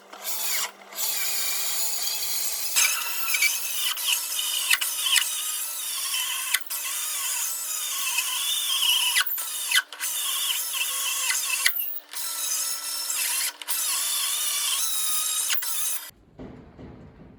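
A handheld power tool working wood, running in stretches broken by several short stops, and cutting off sharply near the end.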